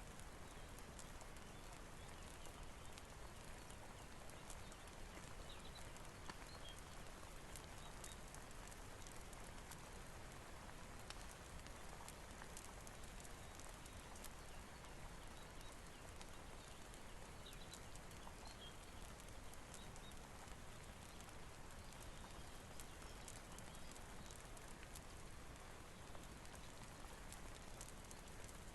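Soft, steady rain with scattered sharp ticks and crackles over it.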